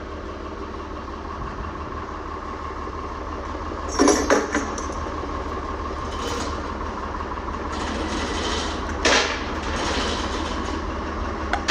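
An engine running steadily, with two loud knocks about four and nine seconds in and lighter clatter between them.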